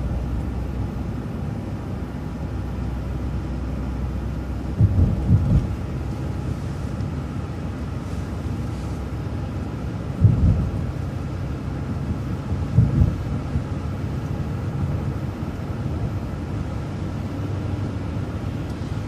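Transit bus driving along, a steady low engine and road rumble, with a few heavy low thumps, about three, as it rides over bumps.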